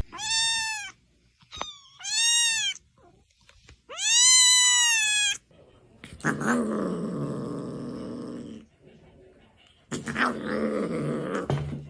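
A cat meowing three times, each call rising then falling in pitch, the third the longest and loudest. Two longer rough, noisy stretches follow.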